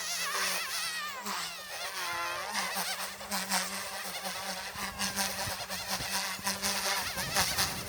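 Goosky S2 micro RC helicopter in flight: a steady low hum from the rotor with a buzzing, high whine that rises and falls in pitch as it manoeuvres.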